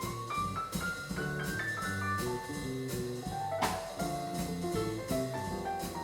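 Live jazz quartet playing, a busy melodic line running up and down over a low bass line and drum kit with regular cymbal strokes.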